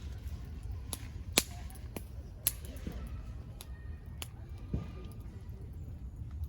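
Wood campfire crackling in a small fire pit, with several sharp, irregular pops, the loudest about one and a half seconds in and again about a second later, over a low steady rumble.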